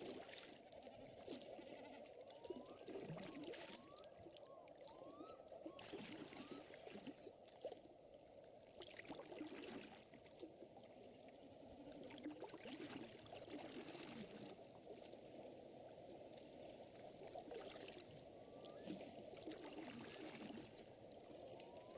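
Faint lakeside nature ambience: water lapping and trickling in uneven waves, with short rising chirps from an animal, heard in small groups a few seconds in and again near the end.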